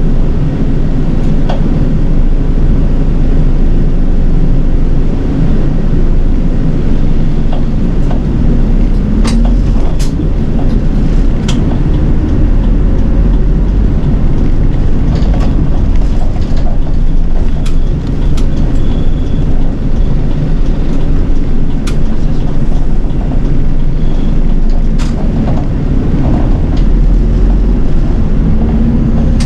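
City bus under way, heard from inside: a steady low engine and road rumble, with a few sharp rattling clicks.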